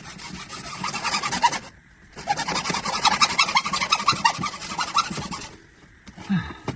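Handsaw cutting through a large plastic drain pipe in fast, rasping strokes, stopping briefly about two seconds in and again near the end.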